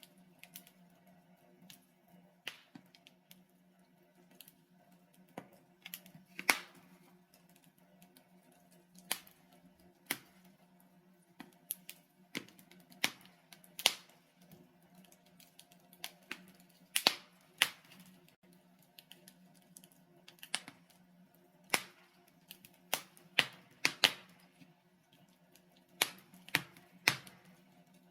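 Wood logs burning in a fireplace, crackling with irregular sharp pops and snaps, a few much louder than the rest, over a faint steady low hum.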